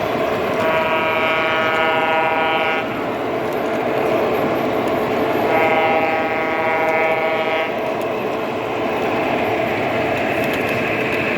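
Model train's electronic horn sounding two long blasts, each about two seconds, over the steady running noise of the layout.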